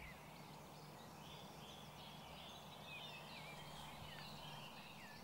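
Faint outdoor ambience of small birds calling, many short quick chirping and warbling notes scattered throughout, over a faint steady low hum that stops near the end.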